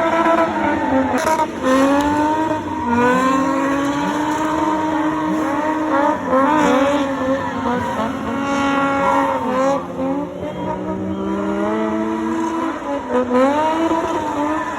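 Car engine revving hard, its revs rising and falling over and over, with tyres squealing as the car drifts in circles.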